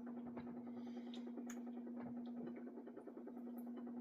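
A steady low hum runs throughout, with a few faint short clicks and smacks of someone chewing.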